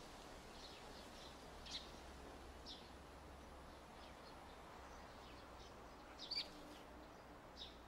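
Faint outdoor ambience: scattered short bird chirps over a low, steady rumble, the clearest chirps a little under two seconds in and again about six seconds in.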